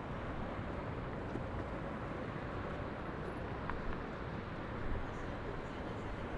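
Steady city ambience heard from high above the streets: an even wash of distant traffic noise with no single event standing out.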